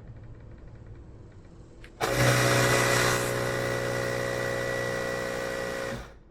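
A small electric air compressor runs steadily for about four seconds while inflating a pit bike's rear tyre tube, starting suddenly about two seconds in and cutting off just before the end.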